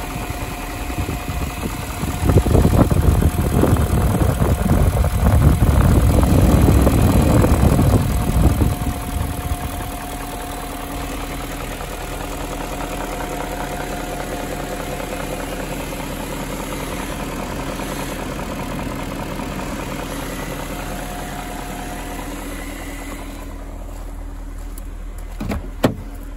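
BMW E38 740i's 4.4-litre V8 idling steadily, with a louder stretch lasting several seconds near the start. A short knock comes near the end.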